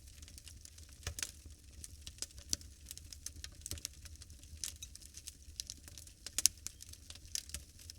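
Wood fire burning in a fireplace, crackling with irregular sharp pops and snaps over a low steady rumble; the loudest snap comes about six and a half seconds in.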